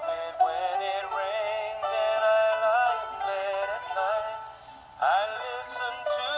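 A man singing a children's song over backing music.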